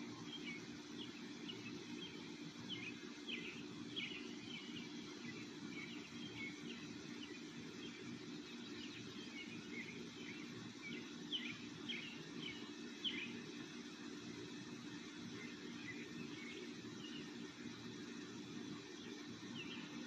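Birds chirping in short, scattered chirps over a steady low outdoor background noise.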